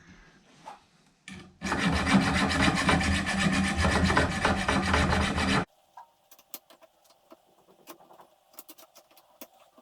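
Small hacksaw cutting through a metal profile with quick back-and-forth rasping strokes, stopping suddenly a little past halfway through; then a few light clicks and taps.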